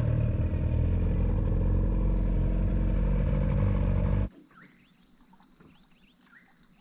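A small boat's motor runs steadily with a low drone, then cuts off suddenly about four seconds in. Insects trill faintly after it.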